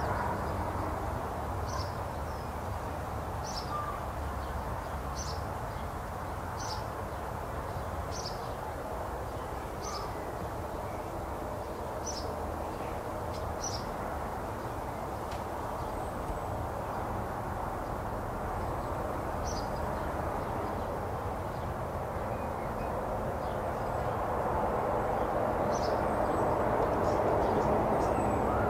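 A songbird repeating a short, high call about every second and a half, pausing, then calling a few more times, over a steady low background rumble that swells near the end.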